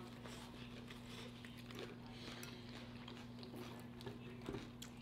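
Faint chewing and mouth sounds of someone eating, with scattered small clicks and a slightly louder one about four and a half seconds in, over a steady low hum.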